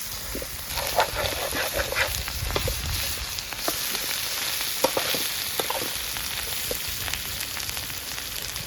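Food sizzling steadily in hot oil in a pan over a fire, with scattered clicks and short scrapes of a utensil as it is stirred.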